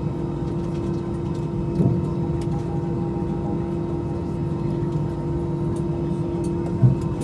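Airbus A320 cabin noise while taxiing after landing: a steady hum from the idling engines with a constant low tone underneath. Two brief knocks, about two seconds in and near the end.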